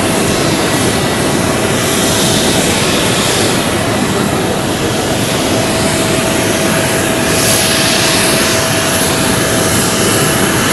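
Airbus A320-214 jet engines running loud and steady on the runway, a broad roar with thin steady whining tones over it.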